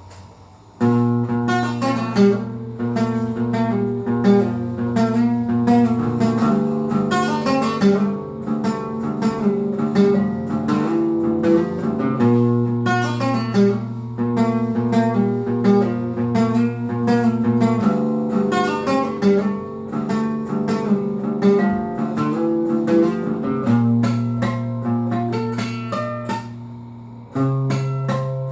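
A guitar playing a continuous run of notes over held bass notes, starting about a second in, with a short break near the end before it picks up again.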